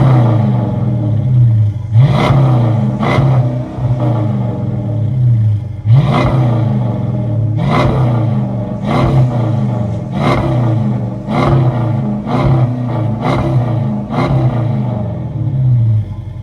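Dodge SRT's V8 engine being revved in about a dozen sharp throttle blips, each rising quickly and falling back, then dropping to idle near the end.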